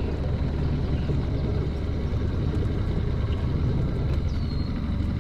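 Steady low rumble of a boat's motor running, with a short descending whistle about four seconds in.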